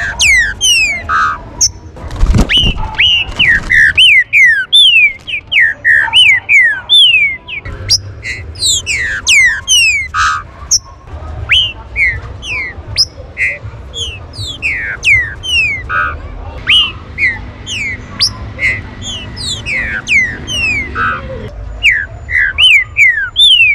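Green-winged saltator (trinca-ferro) calling: a fast, dense run of loud, short whistled notes, each sliding down in pitch, repeated with brief gaps and often overlapping. There is a low thump about two seconds in.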